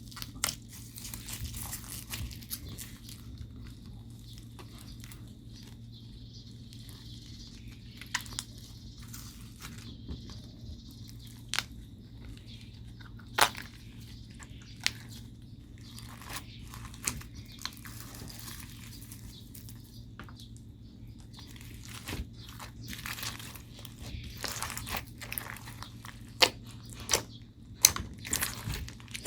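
Slime being mixed and squished, giving irregular sticky pops and crackles that come thicker near the end. A faint steady hum lies underneath.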